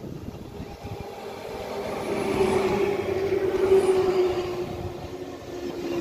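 Z20500 double-deck electric commuter train running along the platform, its rumble and a steady whine growing louder to a peak about three to four seconds in as the cars go by, then easing off.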